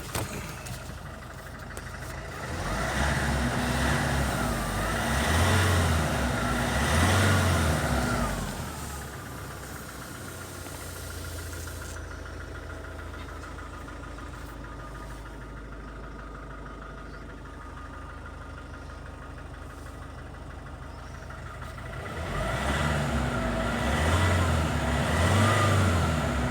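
Nissan Navara 2.5-litre diesel engine idling, revved up twice a few seconds in, settling back to a steady idle, then revved twice again near the end.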